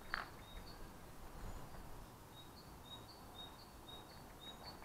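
A bird chirping repeatedly in short, high notes over faint outdoor background noise, with one soft tap just after the start.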